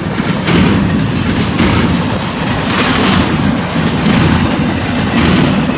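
Freight train cars rolling past close by: a steady heavy rumble with a loud clack of wheels over the rail about once a second.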